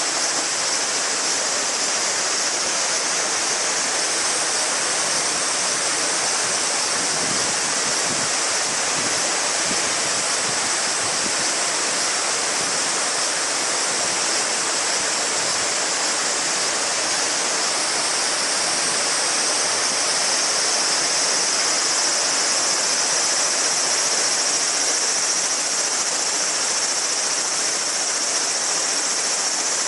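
Mountain stream babbling over rocks, with a steady high-pitched chorus of summer cicadas above it.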